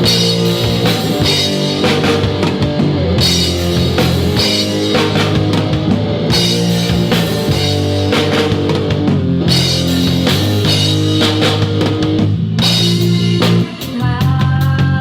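Rock band playing a song, with a drum kit and guitars over a steady beat; the music drops briefly near the end before a new section starts.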